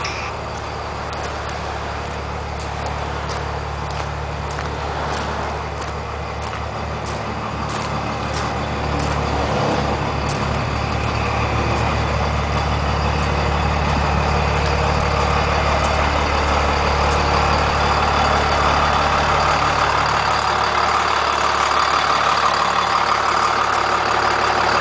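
The bus's Cummins 5.9-litre turbo diesel engine running with a steady low hum, growing louder partway through.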